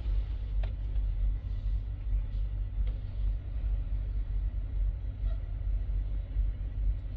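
Diesel semi-truck engine idling: a steady low rumble, with a faint tick about half a second in.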